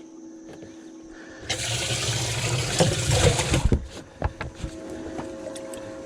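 Water splashing and rushing for about two seconds, starting about a second and a half in, with quieter trickling and splashing around it.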